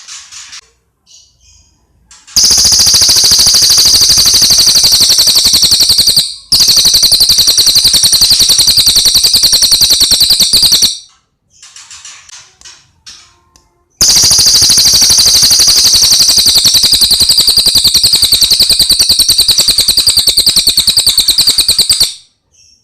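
Cililin birdsong: three long, very fast high-pitched trills of several seconds each, with soft chirps between them.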